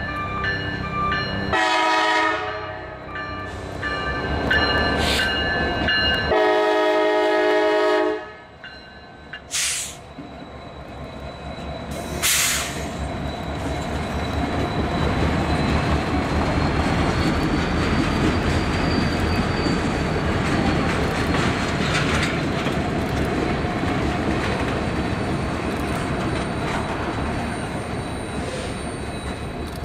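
EMD SD60E diesel locomotive sounding its air horn in two blasts. Then a freight train's cars roll past with steady wheel-on-rail noise and a faint high wheel squeal in the middle.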